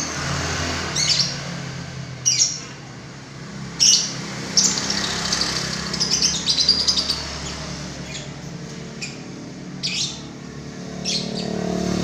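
A songbird calling in short, sharp chirps roughly once a second, with a quicker run of notes around the middle, over a steady low hum.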